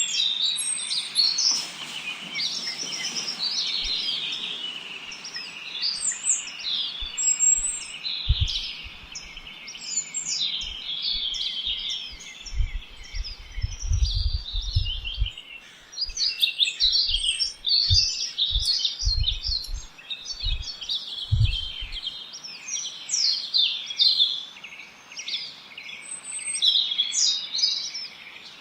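A dense chorus of many small birds chirping and twittering at once: short, high, overlapping calls with no pause. Intermittent low rumbles come and go through the middle of the stretch.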